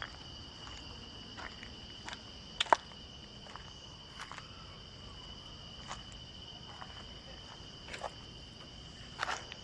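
Insects trilling steadily at a constant high pitch. Scattered footsteps cross it, the sharpest about three seconds in.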